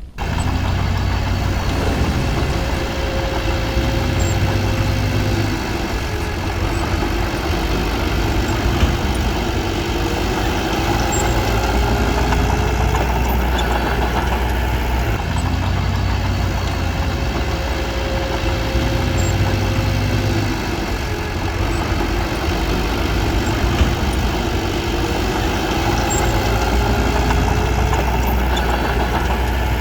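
Bulldozer's diesel engine running steadily, swelling louder for several seconds at a time, about three times, as it takes load.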